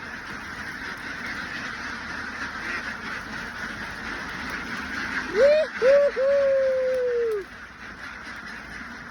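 A large flock of farm ducks quacking together in a steady dense chatter. About five seconds in comes a louder drawn-out call: two short rising notes, then one long note that falls away.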